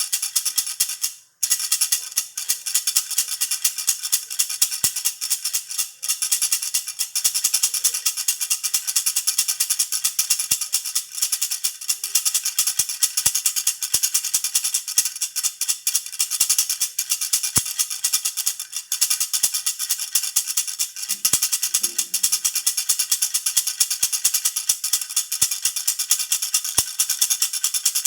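Jhunjhuna, a handheld baby rattle, shaken continuously in a fast, dense rattle. The rattle breaks off for a moment about a second in, then carries on.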